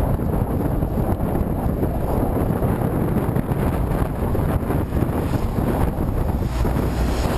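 Strong wind buffeting the microphone, a steady loud low rumble, as when moving into a headwind.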